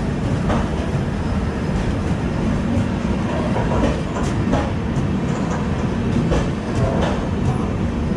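Train wheels running on the rails with a steady rumble and irregular clacks over rail joints and points, heard from an open coach door.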